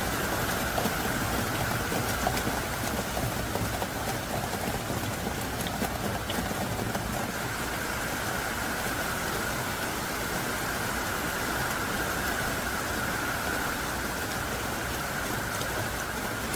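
Heavy rain pouring down steadily, a dense even hiss of drops with scattered sharper drop ticks.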